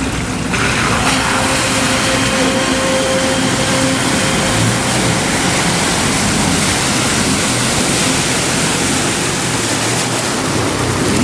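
An off-road 4x4's engine running under a loud, steady rushing noise that sets in about half a second in; the engine tone fades out after about five seconds, leaving only the rushing.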